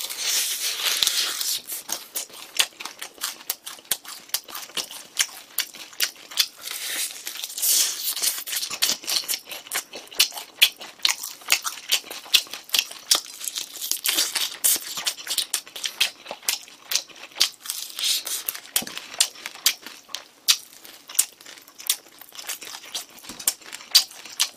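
Close-miked chewing of crispy glazed fried chicken (dakgangjeong): a dense run of sharp, crisp crunches and crackles, several a second, with small wet mouth sounds between them.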